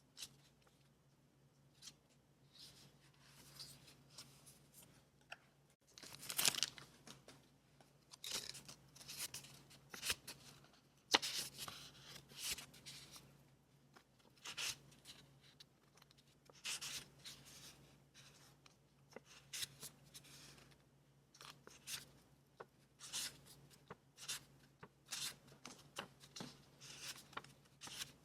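Paper being handled and torn in irregular short bursts, over a faint steady low hum.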